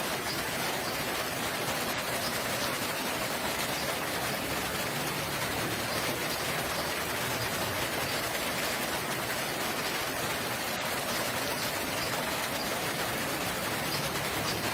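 Steady rain falling, an even hiss of drops with no change through the stretch.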